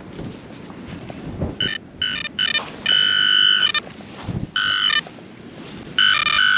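Garrett Vortex VX9 metal detector giving its target tone four times as it is swept over buried metal, the second beep held for about a second. The repeated tone signals a target in the ground.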